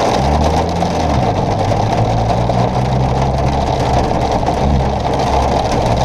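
Car being driven, heard from inside the cabin: the engine runs steadily under a constant rushing noise. The engine pitch shifts in the first second, then holds.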